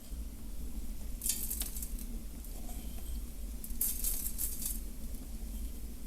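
Water being poured into a cooking pot of meat, in two short splashy spells, one about a second in and a longer one near the middle.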